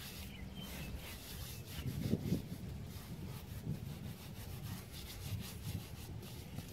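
Faint, irregular rubbing and scraping, with a few slightly louder moments.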